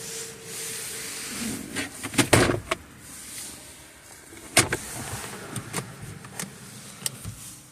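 Clicks, knocks and rustling from parts of a car's interior being handled, with a sharp cluster of knocks about two seconds in and one loud click a little past the middle.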